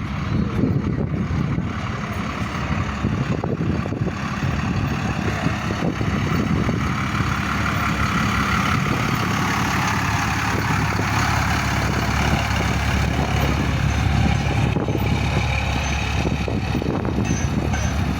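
A large vehicle's engine running close by: a steady low rumble that grows louder about six seconds in.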